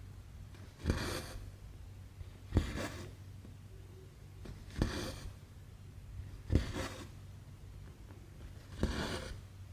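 Cross-stitch needle popping through stamped 11-count fabric, then the embroidery floss drawn through with a short rasping swish. The stitch repeats five times, about once every two seconds.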